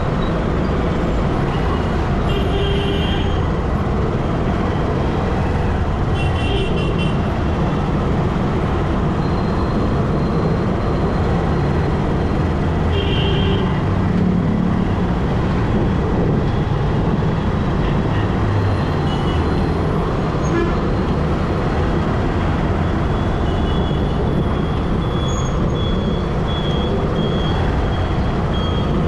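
Steady rushing road noise of a ride through city traffic, with vehicle horns tooting briefly about three times in the first half and again several times near the end.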